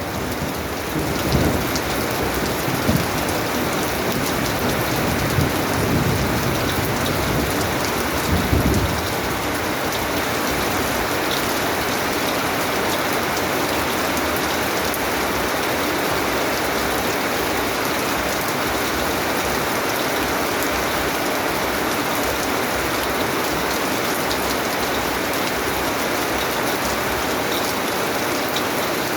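Steady rain falling. Low rolls of thunder rumble through the first nine seconds or so, then fade out and leave only the rain.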